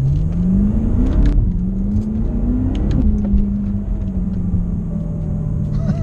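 BMW F10 M5's twin-turbo V8 with a full Akrapovic exhaust pulling hard: the revs climb, drop at an upshift about a second in, climb again, then ease off and slowly fall through the second half.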